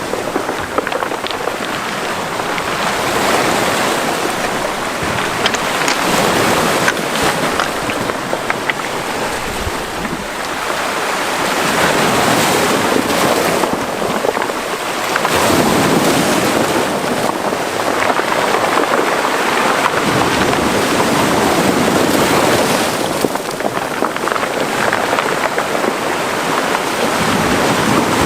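Mediterranean Sea waves breaking and washing into a small cove. The surf swells louder and eases off every several seconds.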